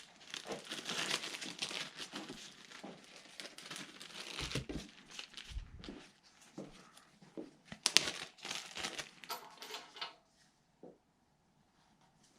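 Plastic parts bags crinkling and rustling as they are handled, on and off for about ten seconds, with two dull knocks about halfway through.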